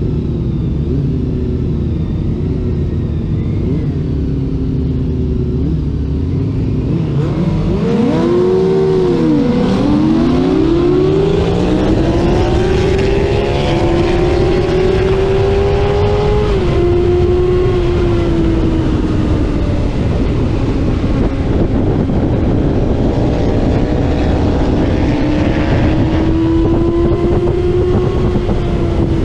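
Racing motorcycle engine heard from on board, with wind rushing past. Its pitch dips and swoops back up about 8 to 10 seconds in, climbs steadily, drops sharply at an upshift about 16 seconds in, then runs on at high revs.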